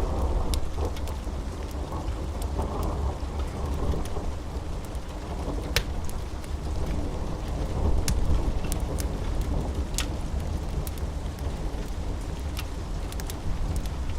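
Steady rain with low rolling thunder that swells right at the start and again about eight seconds in. A few sharp crackles from a wood fire break through now and then.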